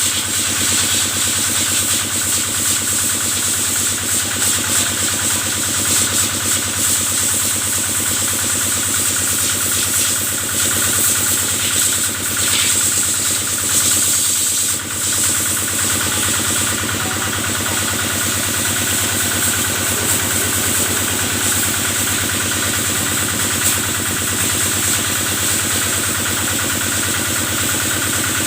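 Kubota single-cylinder diesel engine running steadily at a constant speed, driving the cattle-washing pump, with a steady high hiss over it.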